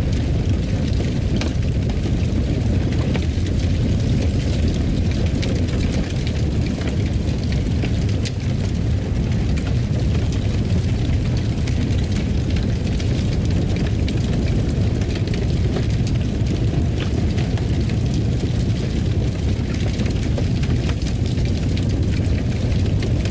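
Fire burning in a fireplace: a steady low rumble with small crackles and pops scattered through it.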